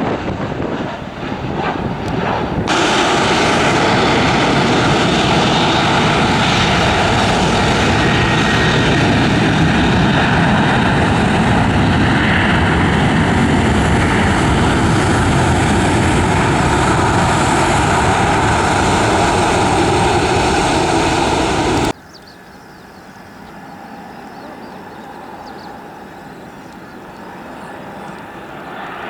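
Airliner engines, a loud steady rush with faint whining tones, that starts about three seconds in and breaks off suddenly after about twenty seconds, leaving a much quieter aircraft engine sound that slowly grows.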